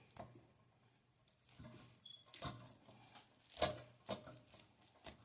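Faint kitchen handling noises: a few light knocks and clicks of cookware and utensils, the loudest about three and a half seconds in, with one short high beep about two seconds in.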